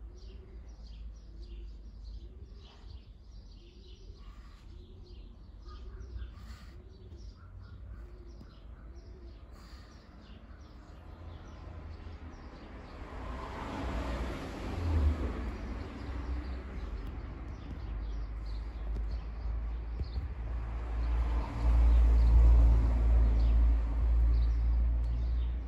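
Small birds chirping, with a soft short call repeated about once a second through the first half. In the second half a broad rushing noise with a low rumble swells up twice and fades.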